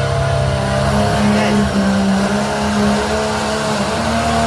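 Pulling truck's engine running hard at high, fairly steady revs as it drags the weight sled down the track, its pitch rising slightly about a second in.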